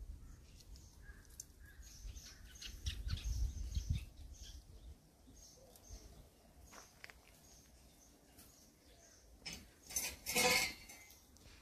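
Small birds chirping in short, scattered calls against a low outdoor rumble. Near the end there is a louder, harsh sound lasting about a second.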